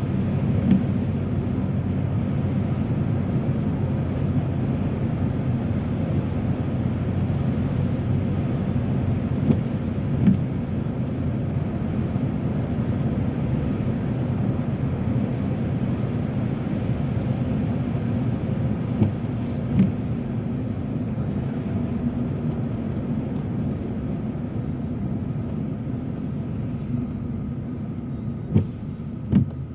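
Steady road and engine rumble of a car heard from inside the cabin, driving on slushy, snowy roads. A pair of light knocks comes about every nine to ten seconds.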